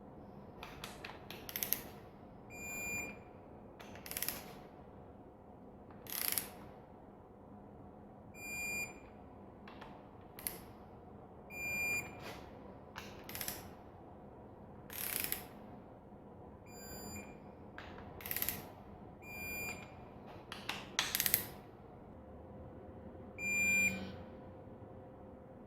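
Hand ratchet working bolts on an engine: short ratcheting strokes repeated every second or two, some with sharp metallic clicks.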